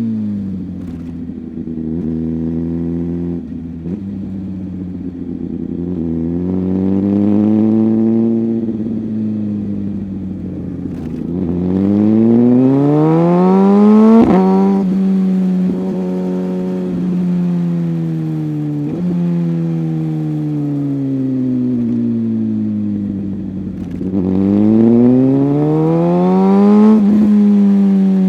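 Motorcycle engine heard on the move, its revs climbing and falling in long sweeps: a short rise about six seconds in, a longer climb to a peak near the middle with a sharp click, a slow fall, then another climb near the end.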